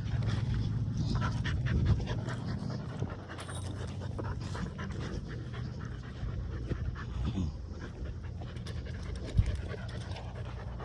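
American pit bull terrier puppy panting, with scattered short clicks and a steady low rumble close to the microphone.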